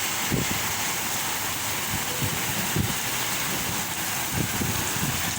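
Heavy rain falling steadily in strong wind, with gusts buffeting the microphone in irregular low rumbles.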